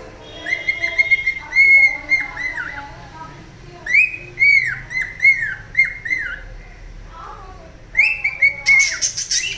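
Cockatiel whistling runs of short, rapid arched notes in three bursts, then letting out a short harsh screech near the end.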